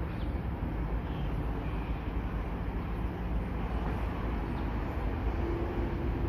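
Train approaching in the distance: a low, steady rumble with a faint engine hum. A higher engine tone comes in about five seconds in.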